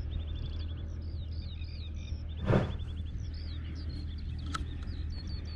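Small birds chirping repeatedly, short high calls mixed with quick little trills, over a steady low rumble. A short, loud burst of noise comes about halfway through.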